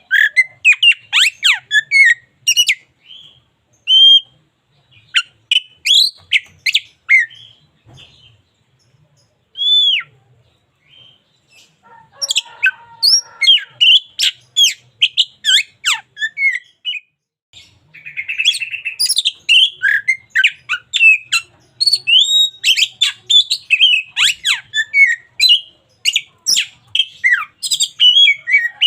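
Oriental magpie-robin (kacer) singing a fast, varied string of sharp whistles and chirps. The song thins to a few scattered notes for several seconds about a third of the way in, and there is one short harsh buzzy note about two-thirds of the way through.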